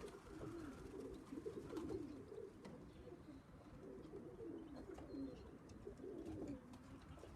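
Pigeons cooing softly, a run of low, wavering coos that keeps going throughout.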